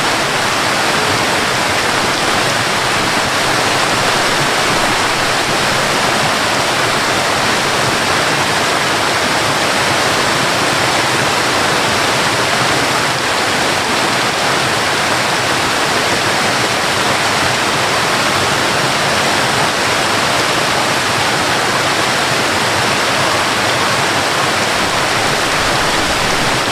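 A waterfall's steady, even rush of falling water, with rain mixed in, unchanging throughout.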